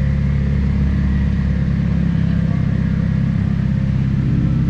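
A car engine idling steadily with a low, even tone.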